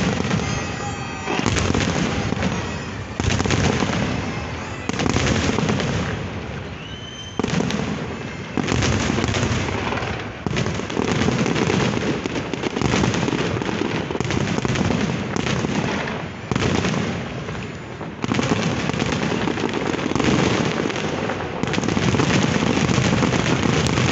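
New Year fireworks display: booming bursts and crackling, one salvo after another every second or two. A short rising whistle comes about seven seconds in.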